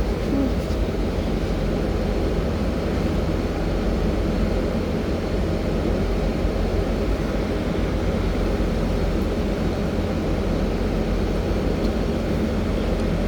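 Interior of a BKM 32100D trolleybus under way: a steady low rumble of the running motor drive, tyres and road.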